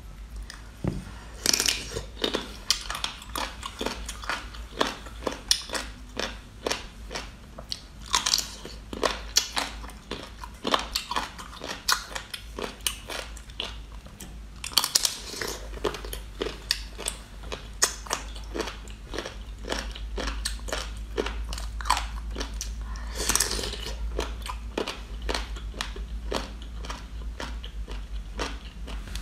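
Close-miked mouth sounds of a person biting and chewing food: an uneven run of crisp crunching clicks, with a few longer noisy stretches.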